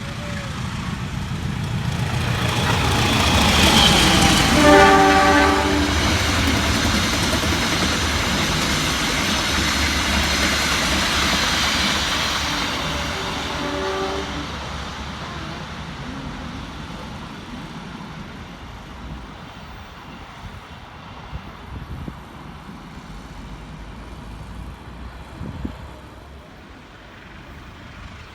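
A train passing at speed, its heavy rumble building, holding, and then fading away, with two horn blasts: one as it comes closest, about five seconds in, and a shorter one roughly eight seconds later.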